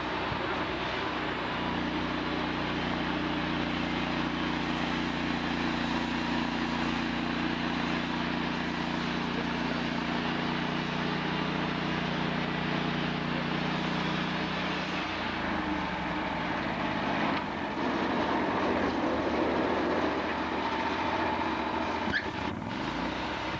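Sawmill engine running steadily under a dense mechanical din; its tone shifts about two-thirds of the way in, and there is a sharp click near the end.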